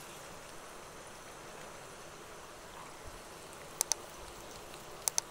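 Small diced potatoes sizzling steadily in hot mustard oil in a kadai, with two quick pairs of sharp pops from the oil, about four and about five seconds in.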